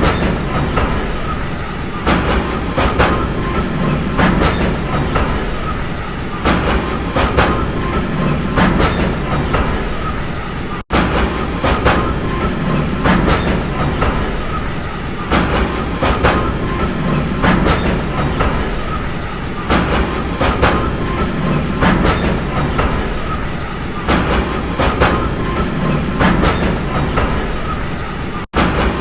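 Train rolling along the track, its wheels clattering over the rail joints in a repeating clickety-clack over a steady rumble. The sound cuts out for an instant twice.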